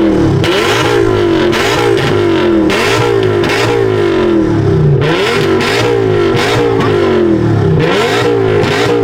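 A car engine revved hard over and over, its pitch climbing and dropping about once a second, loud throughout.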